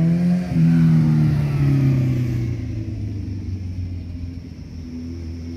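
A motor vehicle driving past, its engine note climbing as it accelerates, loudest about a second in, then falling in pitch and fading away over the next few seconds.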